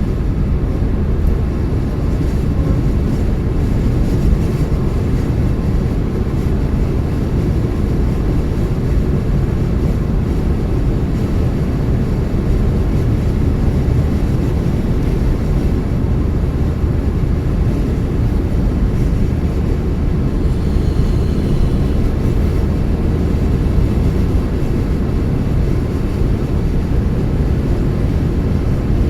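Steady low rumble of a car being driven: tyre, road and engine noise.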